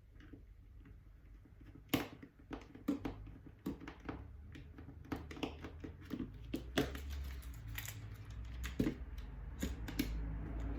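Irregular light clicks and taps of small plastic parts and tools being handled during a drone repair, with a few sharper knocks among them.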